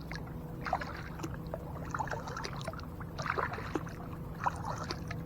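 Kayak paddle in the water: small irregular splashes and drips, over a steady low hum.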